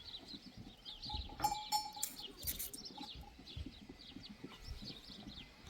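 Faint farmyard sounds: small birds chirping on and off, with a brief livestock call about a second and a half in.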